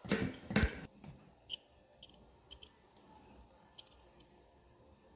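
Two brief rustling, scraping bursts, then a few faint, scattered clicks and ticks, like small objects being handled.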